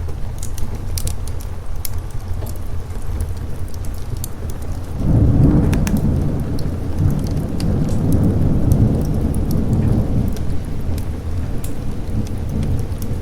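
Steady rain with scattered sharp ticks, and a long roll of thunder that breaks in suddenly about five seconds in, rumbles low for about five seconds, then fades back under the rain.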